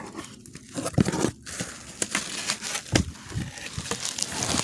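Packaging being torn and crumpled by hand: uneven crinkling with many short, sharp crackles.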